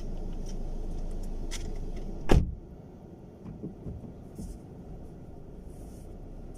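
A car door slams shut about two seconds in, a single heavy thump, after which the steady low rumble underneath becomes quieter.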